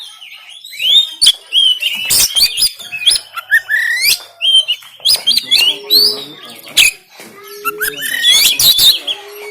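Oriental magpie-robin (kacer) singing a loud, harsh, varied song: fast whistled glides and sweeps mixed with sharp clicking and rasping notes, in two dense bursts.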